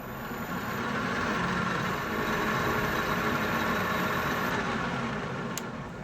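Metal lathe taking a single-point threading pass inside a bore in a steel press plate: the cutting noise swells over the first second, holds steady, then fades away near the end, with one sharp click just before it dies out.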